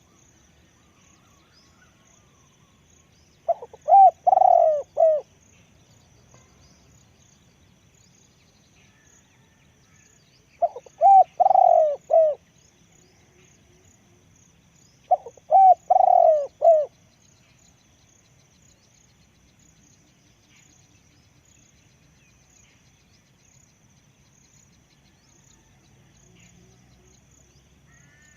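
Spotted dove cooing: three phrases of several coos each, about four, eleven and fifteen seconds in, with quiet gaps between. Faint high chirping goes on throughout.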